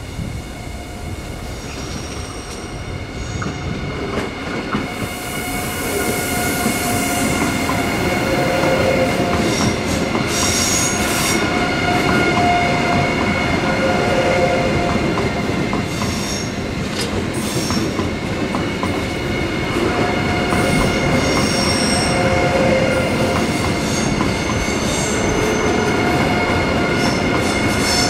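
Train rolling through the station, its wheels squealing on the rails with several steady high tones and scattered clicks over rail joints. It grows louder over the first several seconds, then holds, with a brief hiss about five seconds in.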